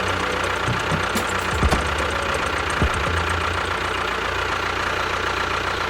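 Small engine running steadily, with a few sharp knocks in the first three seconds.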